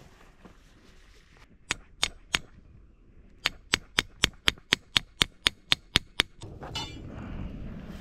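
A hammer driving a metal tent peg into the ground: three sharp strikes, a pause, then ten quicker strikes at about four a second, followed by a short rattle.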